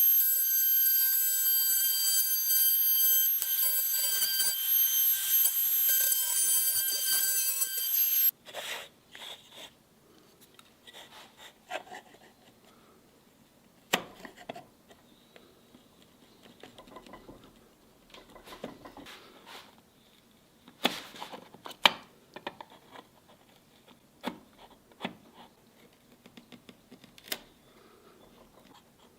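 A power tool's motor running with a steady high-pitched whine, cutting off suddenly about eight seconds in. Scattered light taps and clicks of wood and tools being handled follow.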